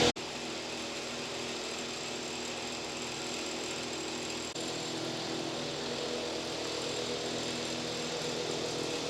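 A small motor running steadily, a drone with several held tones, briefly dipping about four and a half seconds in.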